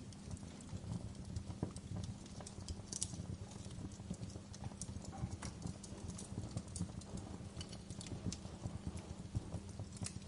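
Wood fire burning in a fireplace: irregular crackles and pops over a low steady rumble of flame.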